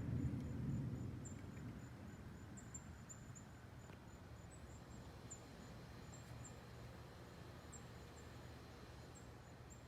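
Low thunder rumble fading away over the first second or two, leaving the faint steady low hum of two air-conditioner condensers running. Short high insect chirps come every second or so throughout.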